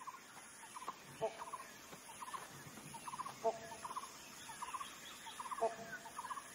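Birds calling: short rattling notes repeat again and again, and a lower call sounds three times about two seconds apart.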